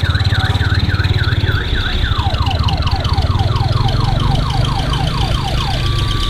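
Odong-odong Tayo tourist bus running with its engine rumbling under a warbling electronic siren. The siren makes quick dipping chirps at first, about three a second. About two seconds in it switches to fast falling sweeps, which stop shortly before the end.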